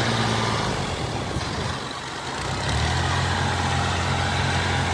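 Combine harvester running under work, its diesel engine humming low over the clatter and rush of the threshing machinery. The low engine hum dips about two seconds in and comes back strongly just under a second later.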